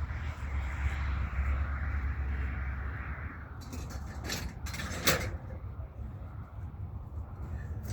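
Steady low rumble with a hiss that fades out about three and a half seconds in, then a few sharp clanks and scrapes of scrap being handled and loaded onto a truck, the loudest about five seconds in.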